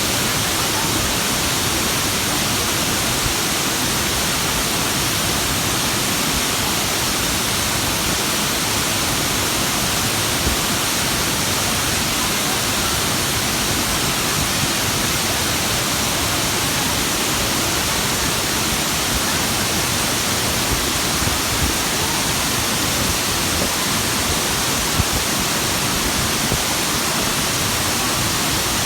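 Fukuroda Falls waterfall: a steady, even rush of falling water that does not change.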